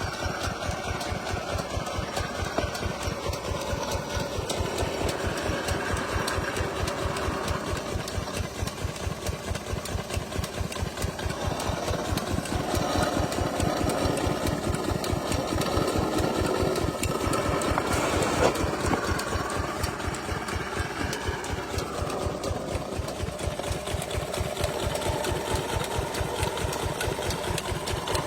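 Single-cylinder 8 hp Lister diesel engine running steadily with a fast, even beat, driving a water pump.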